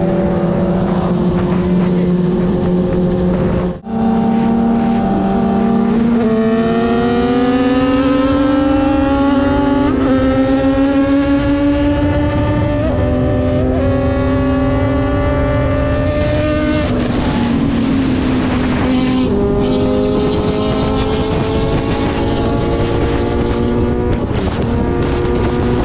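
Superbike engine and exhaust running under way, the pitch climbing as it accelerates and stepping down at each gear change, with wind noise throughout. The sound cuts out briefly about four seconds in.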